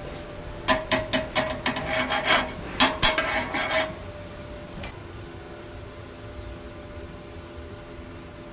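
Hand tool working on metal in quick strokes: a run of about a dozen sharp, rasping strokes over some three seconds, about four a second, with a faint ring under them, then a single small click.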